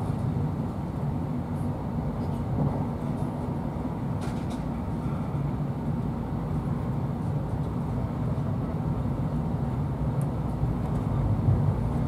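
Steady low rumble inside a passenger coach of a Class 43 HST train running at speed: wheels and running gear on the track, heard through the carriage, slightly louder near the end.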